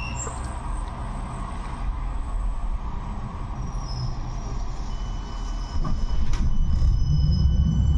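A 71-628-02 tram running, heard from inside the car: a steady rumble of wheels on rail with thin, faint squealing tones. About six seconds in the rumble grows louder and a sharp knock is heard.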